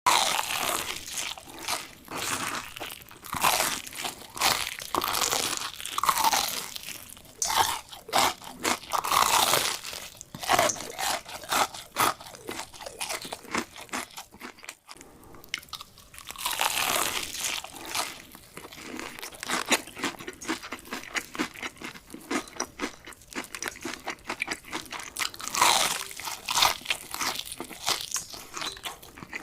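Close-miked eating of chicken: crunchy bites and chewing, dense irregular crunches that pause briefly about halfway through.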